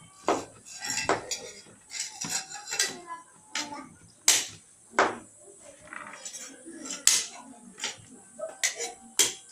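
Irregular clinks and knocks of small hard objects being handled, with a few sharper strikes now and then.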